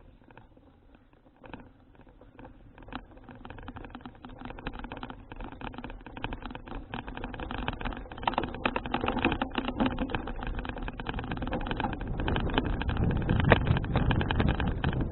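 Wind buffeting the microphone of a bicycle-mounted action camera, growing steadily louder as the ride picks up speed, with a rapid clatter of small clicks and rattles throughout.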